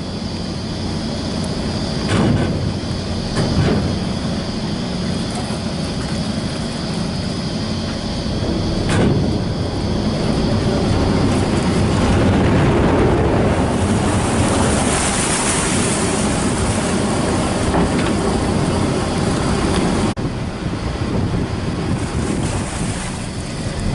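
Ferry's engine running steadily under a loud rush of wind and water noise, with a few short knocks and a swell of hiss partway through.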